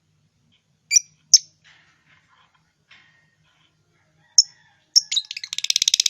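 Lovebird calling: three short, shrill single calls, then a rapid burst of fast repeated chirps near the end.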